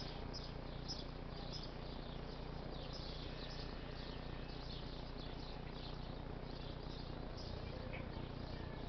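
Small birds chirping in the trees, many short falling chirps one after another, over a steady low background hum.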